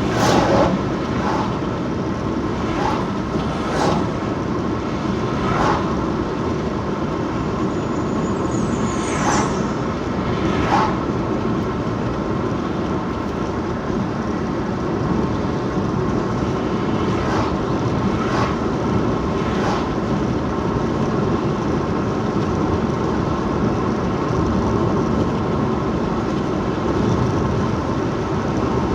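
Car driving along a road: steady engine and tyre noise, with a few short knocks in the first twenty seconds.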